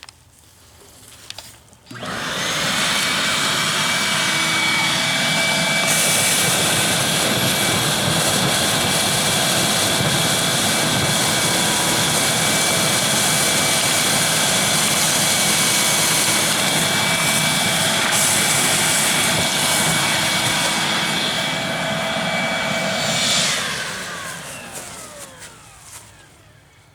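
Wet-dry vac switched on about two seconds in and running steadily with a high motor whine while it sucks water out of a flooded hole, then switched off near the end, its whine falling as the motor spins down.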